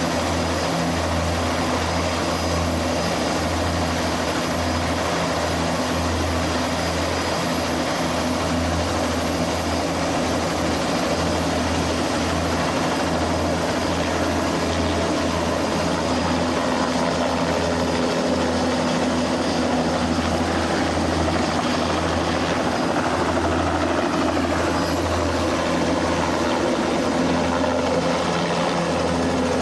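Turbine helicopter running steadily, its rotor giving a low, even throb, with a thin high whine above.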